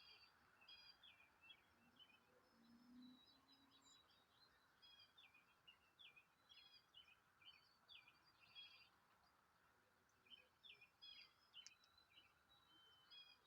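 Faint chirping of small songbirds: quick, high, short notes in repeated clusters, over a faint steady background hiss.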